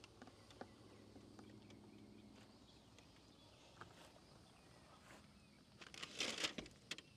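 Mostly near silence with a few faint clicks, then about six seconds in a short burst of rustling and crunching.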